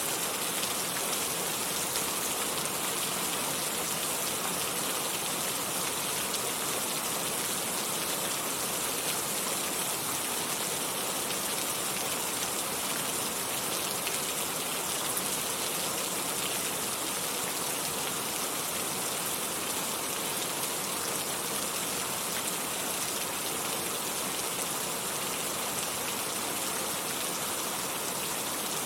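Steady rain falling, an even hiss of rain on surfaces with no thunder and no change.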